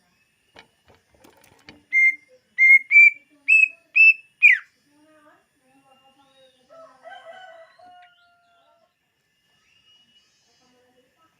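Cucak ijo (green leafbird) singing: six loud, clear whistled notes that step slightly upward in pitch and end on a quick downward slide, followed by softer, lower twittering.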